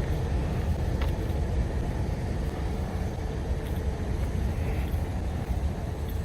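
Diesel locomotive engine idling: a steady low rumble with a faint steady hum above it and one light click about a second in.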